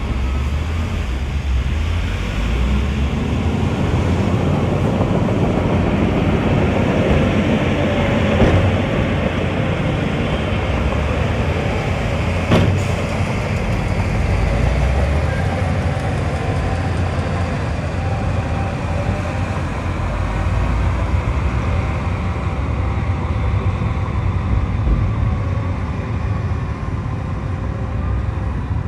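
Heavy diesel construction machinery running steadily under load, with two sharp metallic knocks, one about a third of the way through and another a few seconds later.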